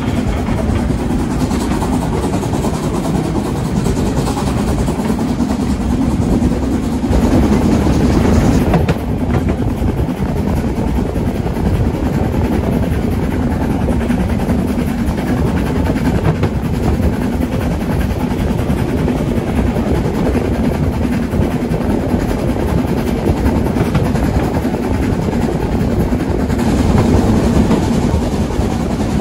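Brocken Railway metre-gauge steam train running, a steady loud rumble with a stronger low hum, brighter and louder from about seven to nine seconds in and again near the end.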